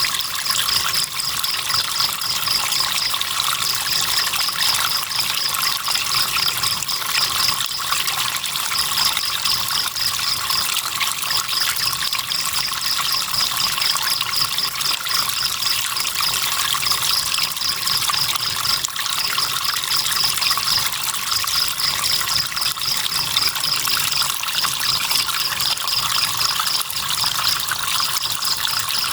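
Steady flowing river water with a cricket trilling on top: a high, rapidly pulsed chirping in phrases of a few seconds each, separated by brief pauses.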